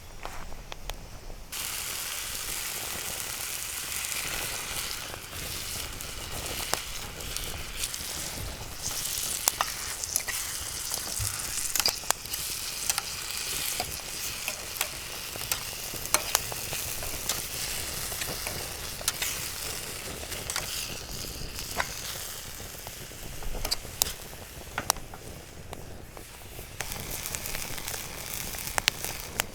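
Sliced shiitake mushrooms frying in butter in a pan, sizzling steadily from about a second and a half in, with frequent sharp clicks and taps from stirring in the pan.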